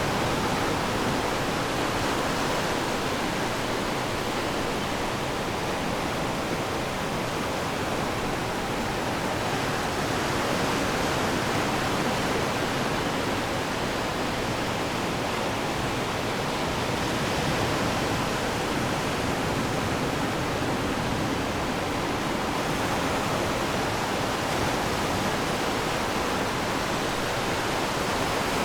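Ocean surf washing on the shore: a steady rush of water noise that rises and falls slightly.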